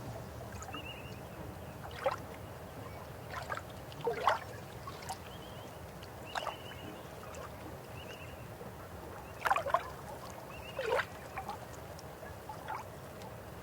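River water flowing steadily, with brief gurgles and splashes breaking through every second or two, several of them louder around the middle. Faint short high chirps come and go over the water.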